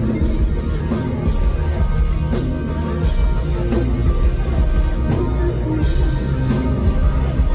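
Live rock band playing, with electric guitar, a heavy bass-and-drum low end and a few cymbal crashes, picked up from the concert audience.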